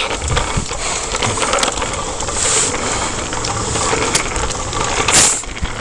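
Bicycle tyres rolling over a rough, crunchy surface, a steady crackling rumble with scattered clicks. Two brief high hisses come about halfway and near the end.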